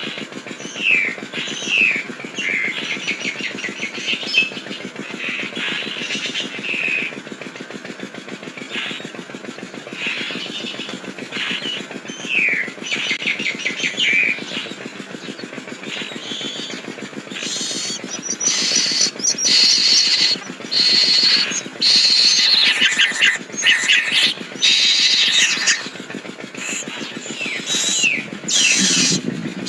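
Nias hill myna whistling and calling in a run of varied, gliding notes. About two-thirds of the way through, the calls grow louder and more rapid. A steady low hum runs underneath.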